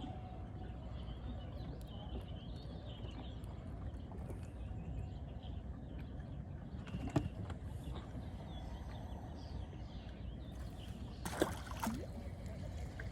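Steady low wind and water noise aboard a small fishing boat, broken by two sharp knocks, one about seven seconds in and a louder one about eleven seconds in.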